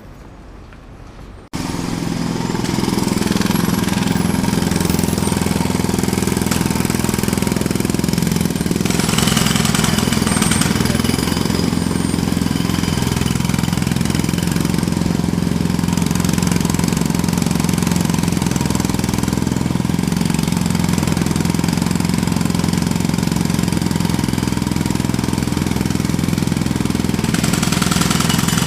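Jackhammer starts suddenly about a second and a half in and keeps hammering steadily, with a low steady hum beneath it.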